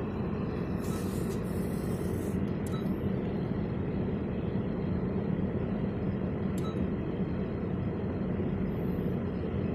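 Honda Civic four-cylinder engine idling, heard as a steady low rumble inside the cabin, with a few faint clicks about one, three and seven seconds in.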